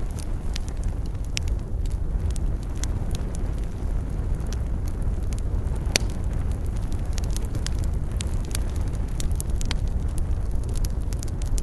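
Wood campfire crackling, with many irregular sharp pops and snaps over a steady low rumble; one pop about halfway through is louder than the rest.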